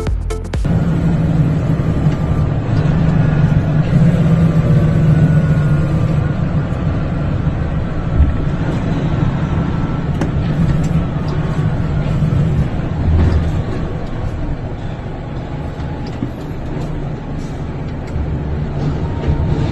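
A heavy road vehicle's engine running steadily with road noise, a deep hum with a faint whine that slowly shifts in pitch.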